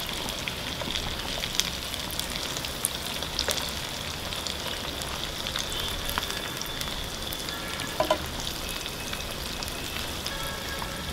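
Potato donuts shallow-frying in hot oil: a steady sizzle, with a few faint clicks from a spoon turning them over.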